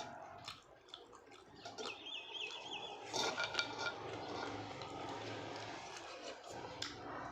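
Eating sounds at a meal: a plate and utensils clinking and knocking, with scattered clicks.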